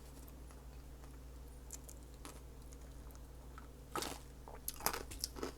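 A person chewing food close to the microphone, with a few sharp wet mouth clicks, the strongest about four and five seconds in.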